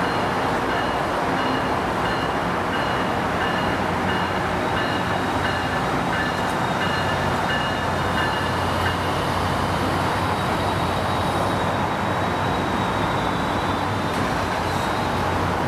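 A train running past on the rails: a steady, loud rush and rumble of wheels on track, with faint high thin tones over it.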